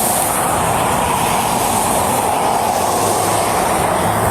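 Steady, loud vehicle noise, a continuous mechanical rush with no breaks.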